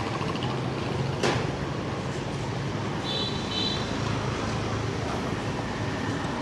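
City street traffic: motor vehicle engines running steadily, with a sharp knock about a second in and a brief high-pitched double tone about three seconds in.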